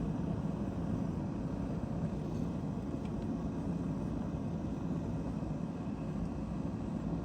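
A steady low roar that holds even throughout, with a faint hum in it and no hammer blows or other strikes.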